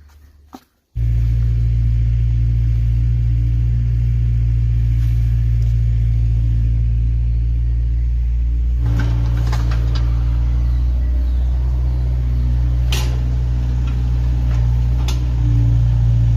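Steady, loud low rumble of a moving vehicle, starting suddenly about a second in, with a few sharp clicks and knocks in the second half.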